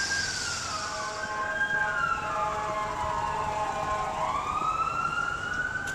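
Fire truck siren wailing in one slow cycle, its pitch falling and then climbing back up. A steady horn-like tone sounds over it for a couple of seconds in the middle.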